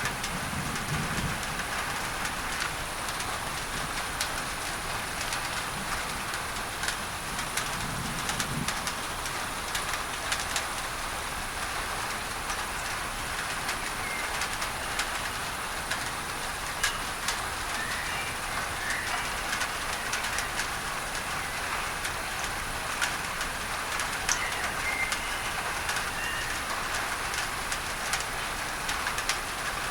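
Steady rain on a tin roof with many sharp drop hits, under a layer of masking noise. Faint bird chirps come in from about halfway through, and a low rumble sounds twice in the first ten seconds.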